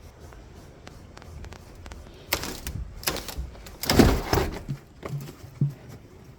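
Snow crunching in three short bursts, the loudest about four seconds in, as something moves through deep snow.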